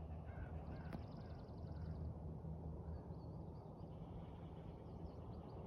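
Quiet lakeside ambience: small songbirds chirping faintly, with a quick high trill about a second in, over a low steady rumble.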